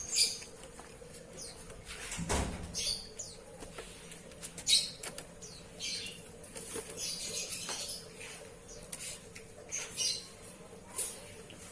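A caged Oriental magpie-robin bathing: repeated short bursts of wing-fluttering and splashing. A single dull thump comes about two seconds in, over a faint steady hum.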